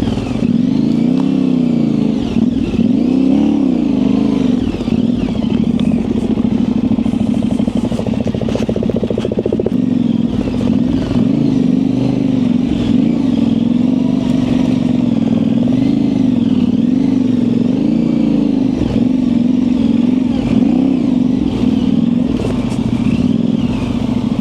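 Yamaha Ténéré 700's parallel-twin engine running at low revs through an aftermarket high exhaust, its pitch wavering up and down continuously as the throttle is opened and closed.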